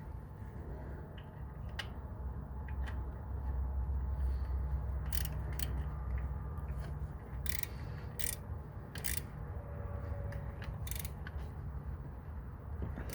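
Ratchet and socket working the EGR valve mounting bolts on a 5.7 Hemi: scattered sharp metal clicks and knocks over a low, steady rumble.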